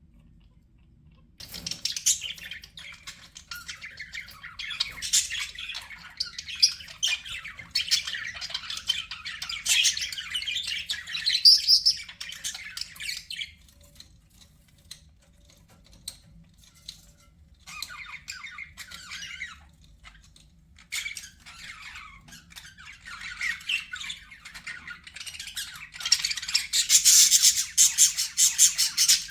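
Budgerigars chattering and warbling in fast, squawky runs of chirps. The chatter starts about a second and a half in, eases off in the middle, and is loudest near the end.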